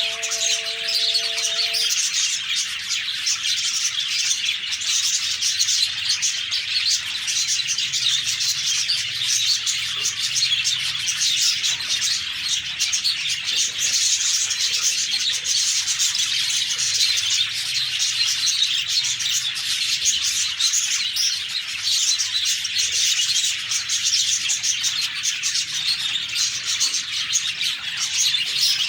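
A group of budgerigars chirping continuously, many high, quick chirps overlapping without a break.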